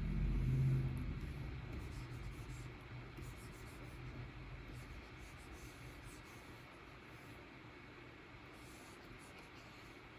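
A stylus nib scratching and sliding across the screen of a Wacom Cintiq 24 Pro pen display in short drawing strokes. Underneath is a low hum that is loudest about a second in and then fades away over the next several seconds.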